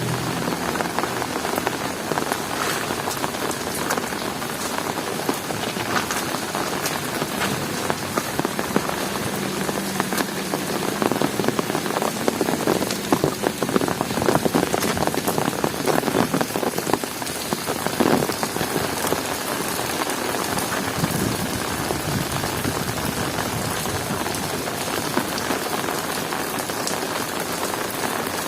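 Heavy rain falling steadily on hard surfaces, a dense patter of many close drops, growing a little heavier midway.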